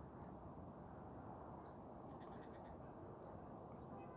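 Faint outdoor ambience, close to silence: a low steady hiss with scattered faint high-pitched chirps, including a quick run of them about halfway through.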